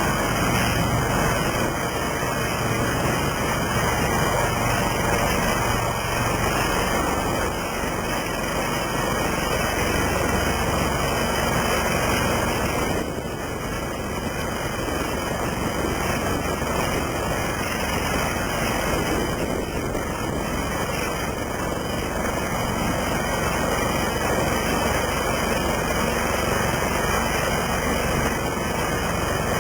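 Westland Lynx helicopter running steadily, its twin turbine engines and rotor making a loud, even noise with a slight dip about 13 seconds in.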